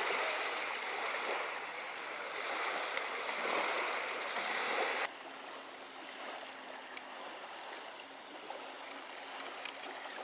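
Steady rushing water noise that drops off abruptly about five seconds in to a quieter, fainter wash.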